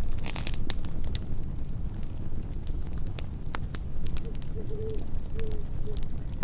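Campfire burning with a low steady rumble and scattered sharp crackles and pops, a dense cluster of them right at the start. Short high cricket chirps repeat about once a second, and a brief low wavering animal call sounds around the middle.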